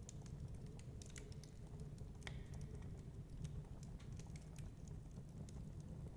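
Wood fire crackling in a fireplace: irregular small pops and snaps, one sharper pop a little over two seconds in, over a steady low rumble.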